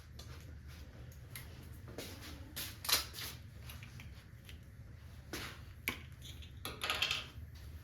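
Brake parts cleaner sprayed from an aerosol can in a few short hissing bursts, the loudest about three seconds in and more near the end, among light clicks of handling over a low steady hum.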